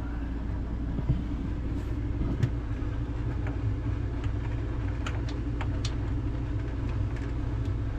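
Scattered small clicks and scrapes of a tiny screwdriver prying a plastic shelf tab out of a refrigerator's side slot, over a steady low hum.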